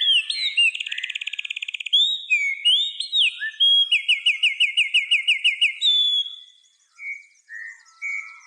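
Birdsong: a songbird's varied high whistles and a fast trill, then a run of about a dozen quick repeated down-slurred notes. After about six seconds the song gives way to fainter, scattered chirps.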